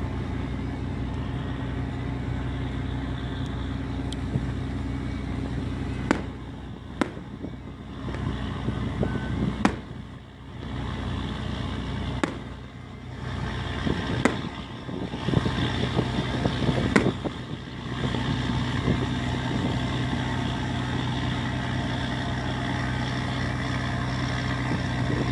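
Fishing boat engine running with a steady low drone, falling away briefly twice in the middle. Several sharp knocks cut across it.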